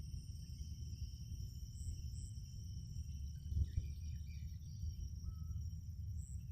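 Night insects, crickets among them, keeping up a steady high-pitched chorus over a low rumble, with a few faint short chirps and one dull thump about halfway through.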